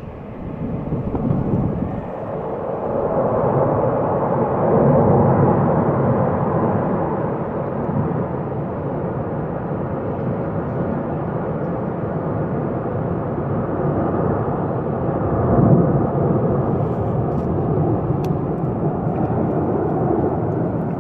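Military aircraft flying over, a long steady rumbling roar that swells about a quarter of the way in and again near the end.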